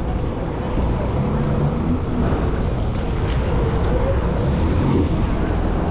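Jet ski engine running steadily, with wind noise on the microphone and water noise.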